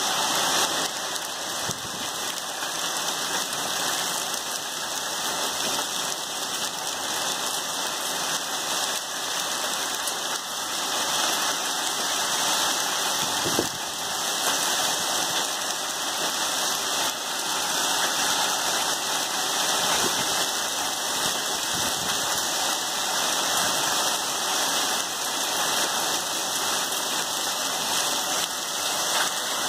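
Heavy downpour of rain mixed with small hail pelting pavement and grass, a steady dense hiss. A few sharper knocks stand out, the loudest about thirteen seconds in.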